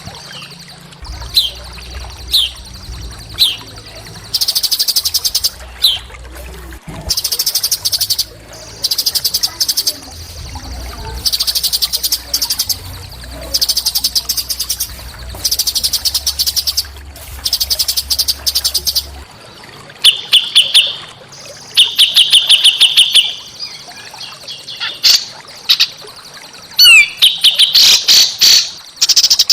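Small songbird singing: a few short down-slurred whistles at first, then a run of high, rapid, buzzy trills about a second long each, repeated with short pauses, and sharp chipping notes near the end.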